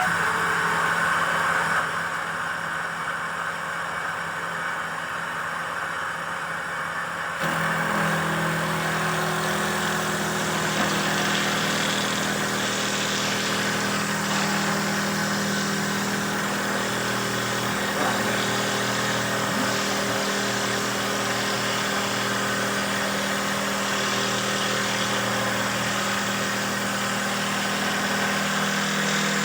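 Motor of a handmade wooden dowel-making machine running steadily; about seven seconds in, a deeper steady hum joins in.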